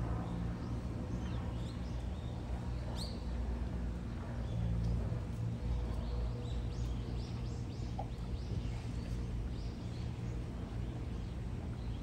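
Small birds chirping in short high calls, thickest from about five to ten seconds in, over a steady low rumble.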